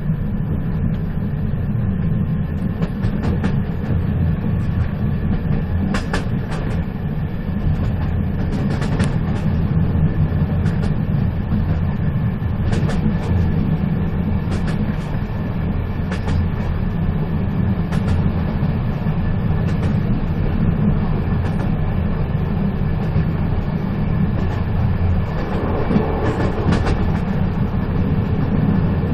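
Moving train: a steady heavy rumble with irregular sharp clicks and knocks from the wheels running over the track, and a short swell in the noise near the end.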